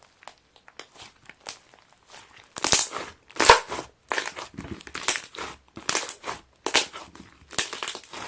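Aloe slime being squeezed and pressed by hand, making crackling, crinkly squishes. Faint clicks at first, then from about two and a half seconds in a loud crackling squish roughly once a second.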